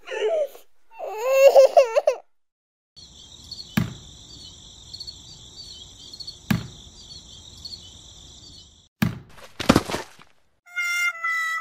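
Edited-in cartoon sound effects. A short baby-like crying voice in the first two seconds, then a steady high chirping like insects with two sharp knocks, a pair of thuds about nine seconds in, and a falling series of tones near the end.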